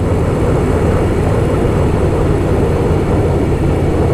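Harley-Davidson Softail Fat Boy's V-twin engine running steadily at riding speed, mixed with rushing wind and road noise.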